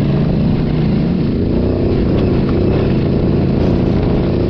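Parallel-twin adventure motorcycle engine running steadily close by.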